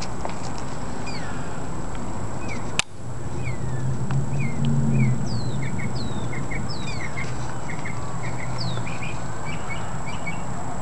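Small birds chirping repeatedly, with short, quick downward-sweeping calls over a steady outdoor hiss. A single sharp click comes just before three seconds in, followed by a low hum that swells and fades over the next several seconds.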